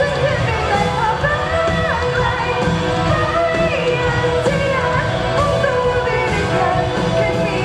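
Pop song performed live: a singer's voice carrying a melody over loud backing music.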